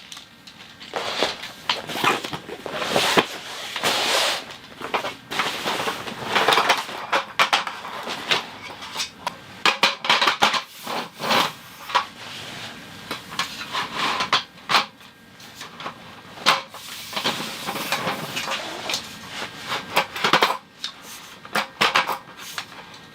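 A string of irregular knocks, clinks and scrapes from hands working with hard objects, like camp cookware and utensils being handled.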